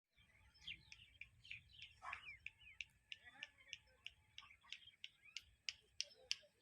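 Birds chirping in quick, short calls, with a run of sharp clicks that grows steadier in the second half, about three a second near the end.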